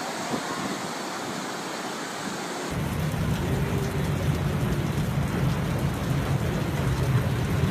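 Storm noise of steady rain. About three seconds in, it switches abruptly to a louder, deep rushing rumble.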